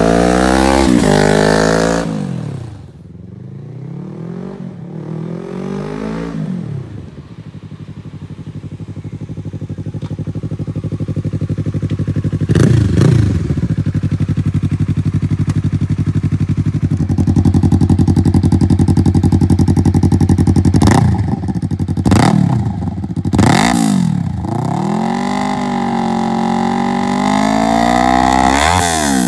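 Yamaha YZF-R3's parallel-twin engine through an M4 Street Slayer carbon slip-on exhaust, idling and being revved: several quick blips that rise and fall sharply, a spell held at higher revs, then a longer rev up and back down near the end.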